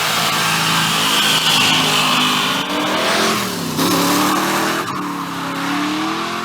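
A car's engine revving hard as the tires spin and squeal in a burnout. The engine pitch drops briefly about three and a half seconds in, then climbs again.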